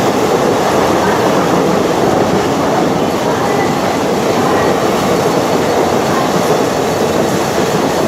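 Indian Railways express train passing close by: the steady noise of its wheels running on the rails, with no horn.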